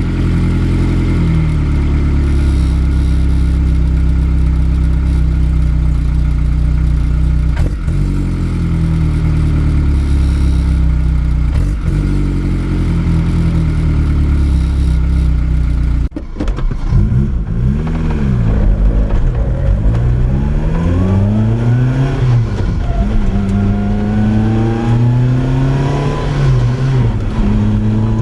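Naturally aspirated four-cylinder engine and loud exhaust of a 2004 Lotus Exige Cup, holding steady revs for about the first half. After a brief cut-out just past halfway, the revs rise and fall several times, then climb steadily near the end.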